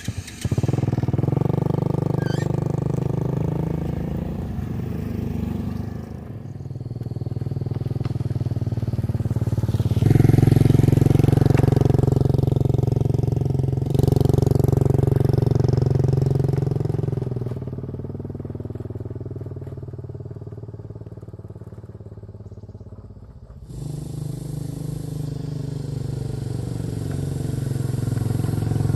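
An engine running steadily, its level and pitch shifting abruptly several times.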